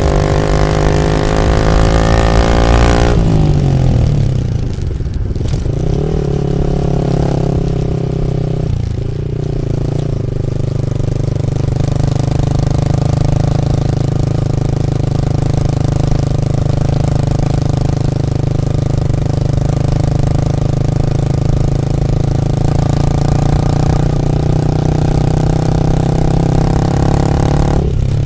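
Yamaha MT-15 V2's 155 cc single-cylinder engine through a full Akrapovic exhaust system, running at high revs for about three seconds, then the revs fall sharply. It shifts in pitch a few times before settling into a steady run at lower revs.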